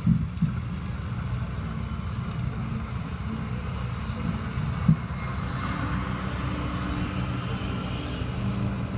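John Deere tractor engine running steadily under heavy load during a tractor pull, a low, even drone. A few short knocks sound over it, the sharpest about five seconds in.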